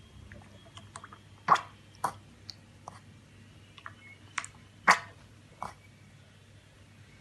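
A few sharp, irregularly spaced clicks or knocks over a quiet background. The loudest come about a second and a half in and again about five seconds in.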